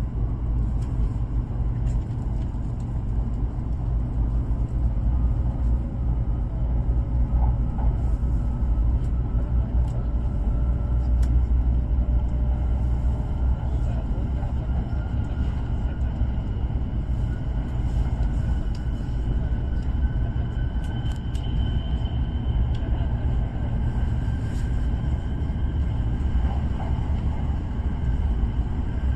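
Electric train running with a steady low rumble, and a faint motor whine slowly rising in pitch as it gathers speed.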